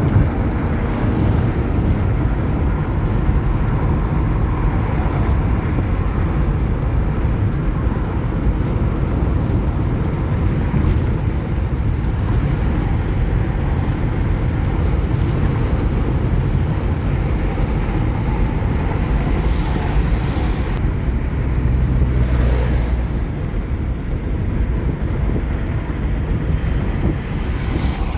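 Steady low road and engine rumble of a car driving along a highway, swelling briefly about two-thirds of the way through.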